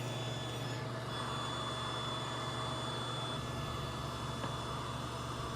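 Table saw fitted with a finger joint blade running steadily with a low hum and a high whine, while cutting a notch into a square wooden table leg against a stop block.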